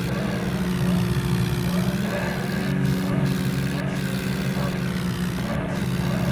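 A vehicle engine running steadily at a constant speed, with a continuous low hum.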